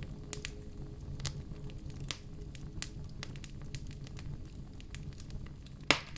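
Burning wood fire crackling, with scattered sharp pops over a low steady hiss and one loud pop near the end.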